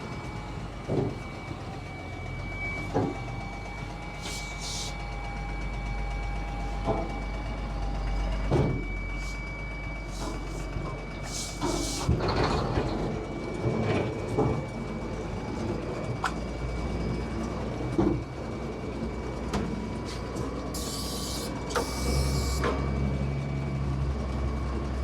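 Heavy truck engine running steadily under load during a tow start, with knocks and rattles and a few short hisses of air. The low rumble grows louder near the end.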